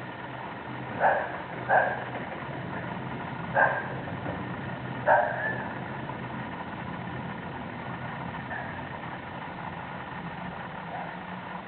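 A dog barks about four times in the first five seconds, with a fainter bark later, over a steady low mechanical hum.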